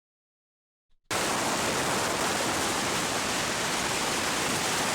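A steady, even rushing noise that cuts in suddenly about a second in, after silence.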